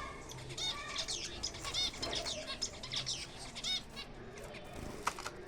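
Aviary finches calling: many short chirps and repeated arched calls overlapping, with wings fluttering.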